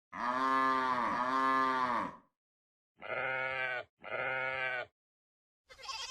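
Sheep bleating three times: one long bleat with a wavering pitch, then two shorter ones in quick succession.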